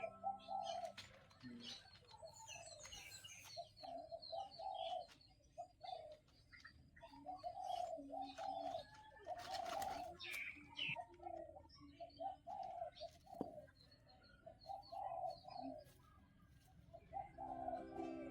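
Birds making low, short repeated calls in clusters, with a few higher chirps and light clicks mixed in.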